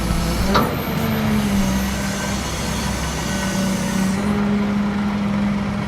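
Heavy machine's diesel engine running steadily, a constant low drone.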